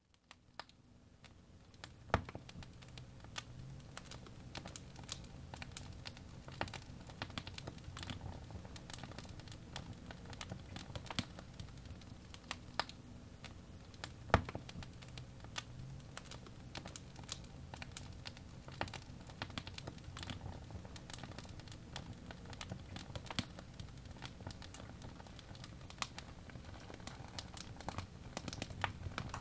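Wood fire burning in a fireplace, crackling and popping continuously over a low rumble, with two louder pops, about two seconds in and about fourteen seconds in. The sound fades in at the start.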